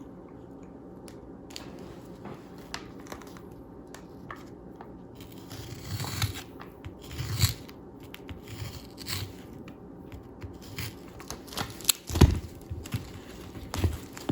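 Fiberglass repair wrap being cut from its roll with a utility knife and handled: rustling and tearing, with two sharp knocks near the end.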